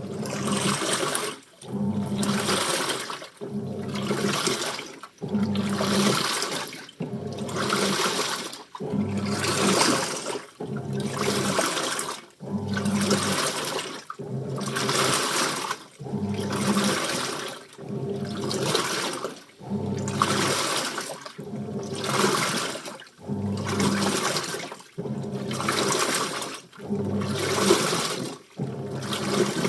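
Washing machine in its wash cycle: the drum turns in repeated strokes, sloshing water and clothes with a low motor hum, about one stroke every two seconds with a brief pause between each.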